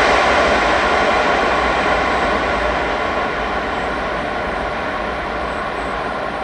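Jet engines of a Boeing 777-300ER airliner on its landing approach: a loud steady roar that slowly fades as the aircraft moves away.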